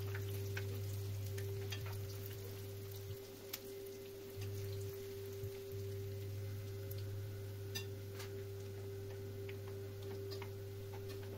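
Bourek rolls of brick pastry frying in oil on medium heat: a soft, even sizzle with scattered small crackles and ticks, over a steady low hum.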